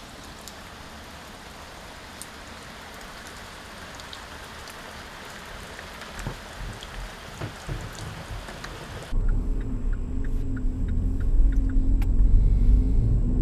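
Steady rain falling on a back garden, an even hiss with the tap of single drops. About nine seconds in it cuts to the low rumble of a car's engine and road noise heard inside the cabin.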